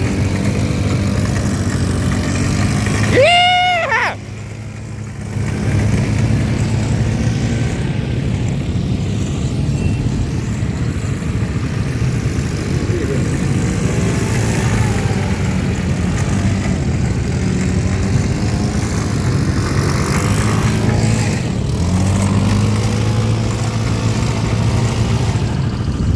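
Quad bike engines running steadily. About three seconds in there is a brief high tone that rises and falls, and then the engine noise drops for a moment.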